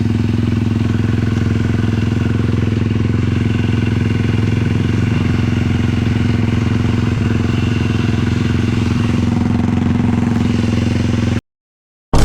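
A 450 cc sport quad's single-cylinder four-stroke engine running at a steady, unchanging speed. It cuts off abruptly about eleven seconds in, and a short loud burst of sound starts right at the end.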